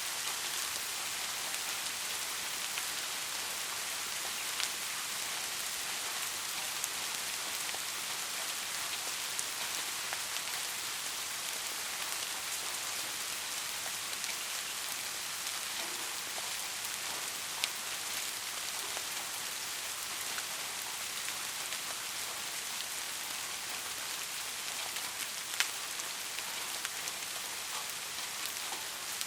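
Steady rain falling, an even hiss with a few single drops ticking out more sharply now and then.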